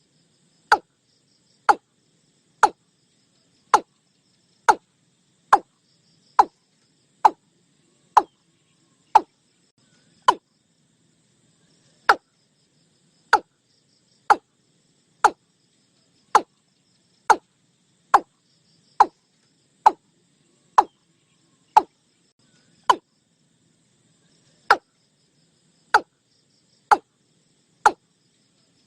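Watercock (Gallicrex cinerea) call, a short hard 'kok' note falling in pitch, repeated about once a second in a long series with a couple of short pauses, as played for a bird-trapping lure.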